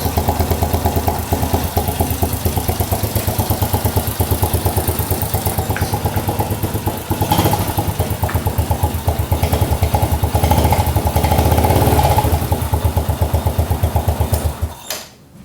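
Old Honda Supra X motorcycle's small single-cylinder four-stroke engine running through a homemade bottle exhaust, a fast even putter, revving up a little in the middle, then cutting off just before the end.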